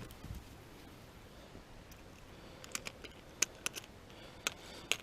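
Quiet background with a handful of short, sharp clicks and taps, bunched in the second half.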